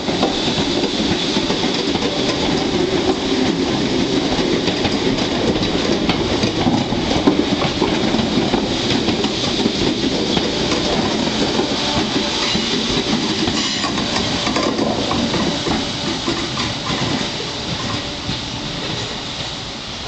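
Southern Class 313 electric multiple unit running along the platform past the listener, a steady rumble of wheels on rail with some clickety-clack, fading over the last few seconds as it draws away down the line.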